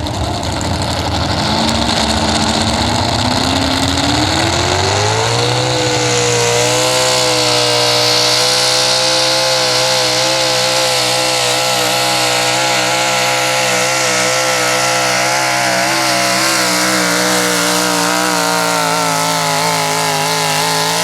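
Big-block pulling truck's engine revving up over the first few seconds, then held wide open at a steady high rpm with a slight waver as it pulls the sled.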